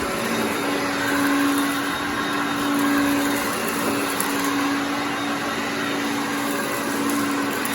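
Hoover Concept One self-propelled upright vacuum cleaner running on carpet: a steady motor hum with a strong tone that swells and eases every second or so as it moves.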